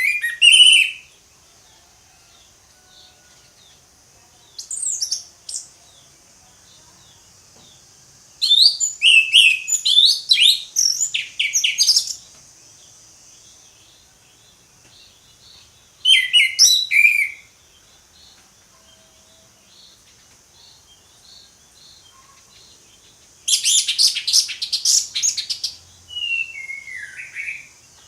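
Orange-headed thrush singing loud, fast, varied phrases of whistles and chirps, separated by pauses of several seconds; the longest phrase comes about a third of the way in, and a short falling slurred note ends the last one. A faint steady high hiss runs underneath.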